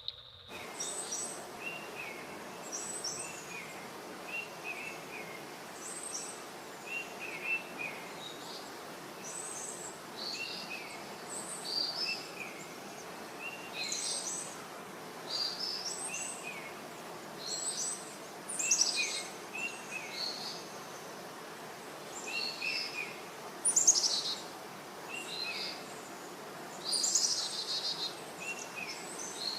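Birds singing and chirping in short, repeated phrases over a steady hiss.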